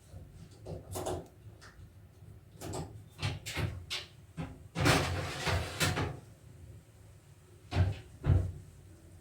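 Kitchen handling sounds: a string of knocks and clatters, with a longer scraping or rustling stretch about five seconds in and two sharp knocks near the end.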